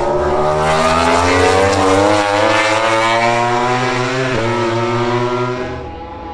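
MotoGP prototype racing motorcycle engine at high revs, rising in pitch as it accelerates, with a brief break about four seconds in like a quick gear shift. It drops away shortly before the end.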